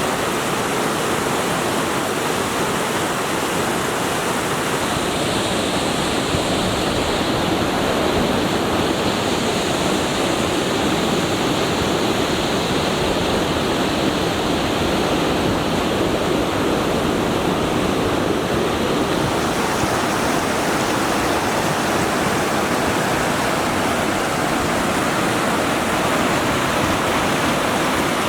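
Steady rush of a fast-flowing mountain stream, the water's noise even and unbroken throughout.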